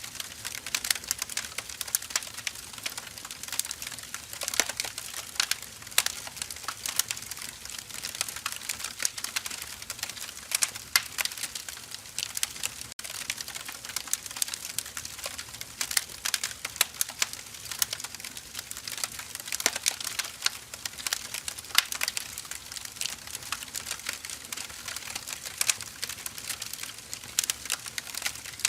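Burning firewood crackling, with many small irregular pops and snaps over a faint hiss.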